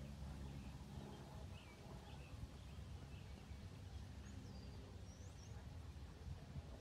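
Faint outdoor background noise with a low steady hum that fades out about a second in, and a few small bird chirps and short whistling glides scattered through the middle and later part.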